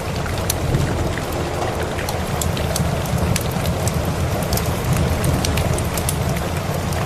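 Steady rain with a low, even rumble underneath, mixed with frequent sharp crackles and pops from a wood fire.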